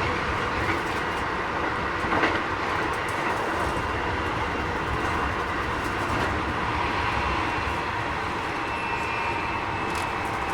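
Keikyu 1000 series electric train with a Mitsubishi IGBT inverter running at speed: a steady rumble of wheels on rail with a faint electric whine from the inverter and traction motors, rising slightly near the end. This set is a little noisier than others of its class.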